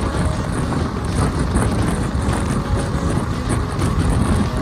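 Passenger train running at speed, heard from its open doorway: a loud, steady rush of wheels on the track mixed with wind rushing past the microphone.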